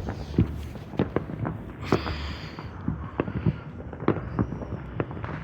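Fireworks and firecrackers popping and cracking irregularly, several a second, with a brief hiss about two seconds in.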